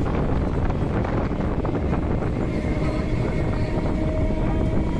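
Steady rumble of a moving train, heard from a carriage, with wind buffeting the microphone.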